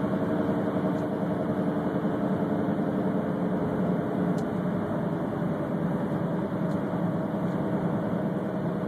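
Whirring from a 1997 Honda CR-V heard inside the cabin while driving: a steady hum made of several pitched tones over road noise. The whir follows road speed rather than throttle, carrying on with the foot off the accelerator.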